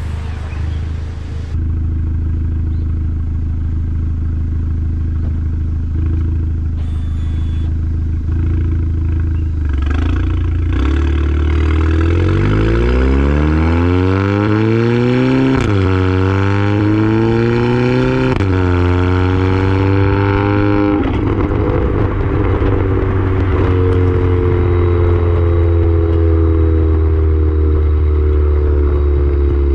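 Volkswagen Golf GTI engine and exhaust idling steadily, then the car accelerates: the engine note climbs, drops at a gear shift, climbs again and drops at a second shift. Near the end it settles into a slowly falling drone as the car eases off.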